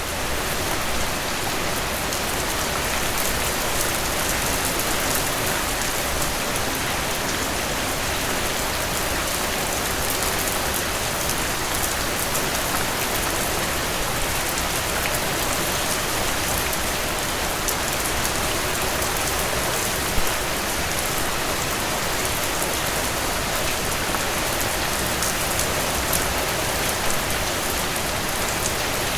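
Heavy rain falling steadily, a dense continuous downpour with the patter of individual drops hitting a surface throughout. One drop lands louder about twenty seconds in.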